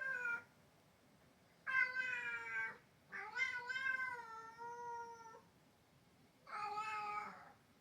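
Domestic cat giving loud, drawn-out dog-like 'wao-wao' meows toward the outdoors: a call cut short at the start, then three more, the middle one the longest at about two seconds.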